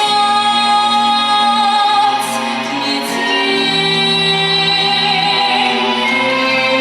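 Female solo voice singing a pop song over a recorded backing track, with long held notes.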